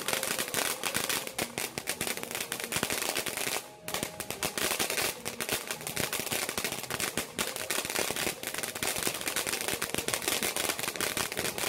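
Fireworks going off in a long, rapid run of sharp crackling pops, with a brief lull about four seconds in.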